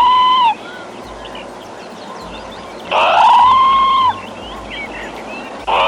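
An animal's loud call, sliding up and then holding one pitch for about a second, heard three times about three seconds apart. Faint high chirps sound between the calls.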